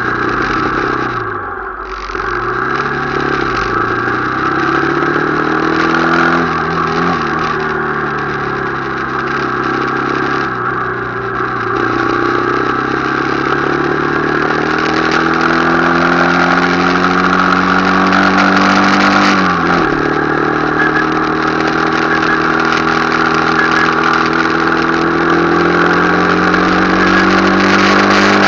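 Motorcycle engine running under way, its revs climbing slowly, with a sharp drop and recovery about two seconds in and again about two-thirds of the way through, as at a gear change.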